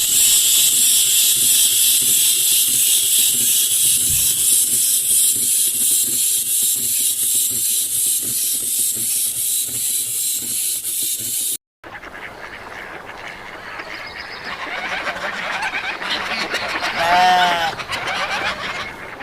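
A steady, loud, high-pitched hiss with a fast flutter in it cuts off abruptly. Then, after a rising background noise, a waterfowl gives one loud honking call near the end.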